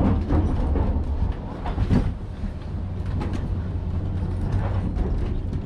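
A boat engine running hard, a steady low rumble with rough noise over it and a few scattered knocks.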